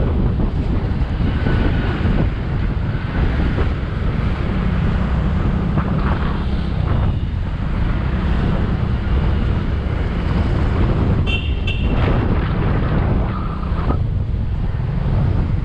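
Motorcycle riding in traffic: wind buffeting the action-camera microphone over the steady running of the Bajaj V15's single-cylinder engine. A brief vehicle horn beep sounds about eleven seconds in.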